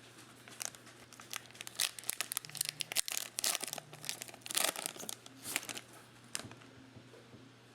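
Plastic wrapper of a 2020 Mosaic football card pack crinkling and tearing as it is opened, in short irregular crackles.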